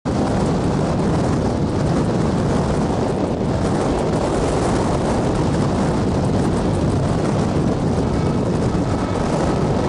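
Passenger train behind a WDM2 ALCO diesel locomotive running at speed: a steady, loud rumble with wind noise. Near the end the locomotive's horn begins faintly.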